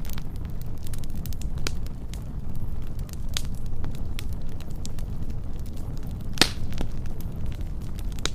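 Wood fire burning: a steady low rumble of flames with scattered sharp crackles, and one louder pop a little after six seconds in.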